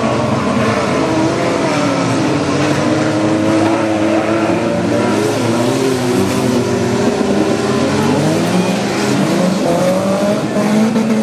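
Several small race-car engines revving at once, their pitches rising and falling and overlapping.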